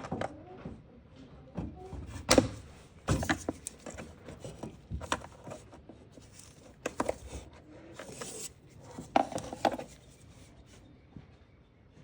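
Irregular clicks, clanks and knocks of hands and tools working at a Ford Ranger 2.3's brake booster vacuum hose as it is undone, with a few sharper strikes; the handling dies away near the end.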